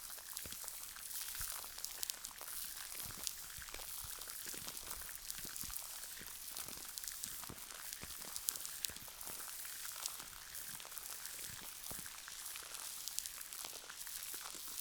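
Gel cleanser being worked with the hands, a dense run of small wet crackling clicks, over a steady hiss of soft rain.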